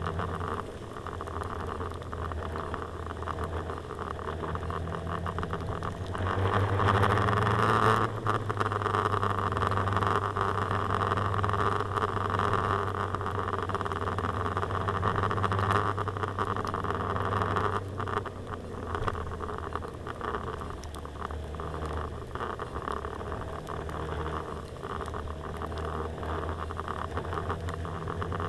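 Suzuki GSR-150 scooter riding through the rain, heard from a camera on the handlebars: the engine runs steadily under wet road and wind noise. Both grow louder about six seconds in, as if speeding up, and ease off again after about eighteen seconds.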